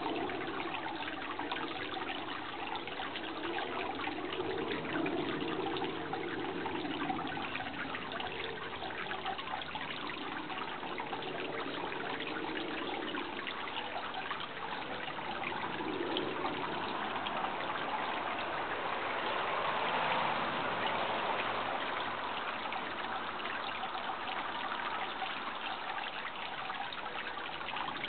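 Steady running water trickling like a small stream, swelling slightly about twenty seconds in.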